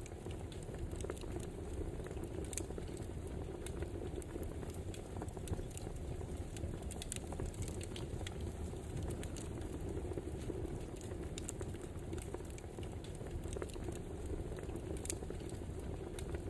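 Wood fire crackling: a steady low rush of burning logs with frequent small, irregular pops and snaps.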